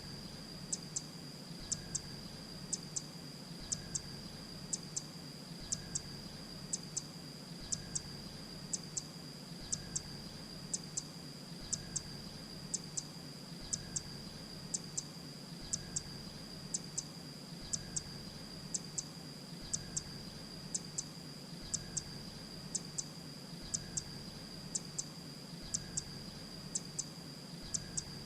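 Grey-breasted prinia calling: very short, high notes, mostly in quick pairs, repeated about once a second in an even rhythm, over a steady thin high whine.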